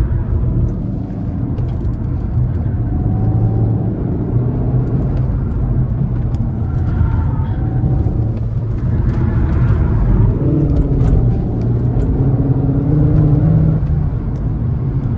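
Cupra Formentor e-Hybrid's 1.4-litre turbocharged four-cylinder petrol engine pulling through the gears on a hard downhill drive, its pitch rising and falling with the throttle over a constant road and tyre rumble.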